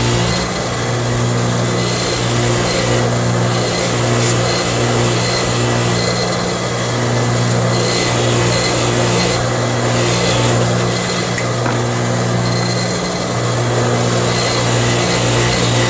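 A power tool's motor running steadily with a constant hum, over a hiss that comes and goes every second or two.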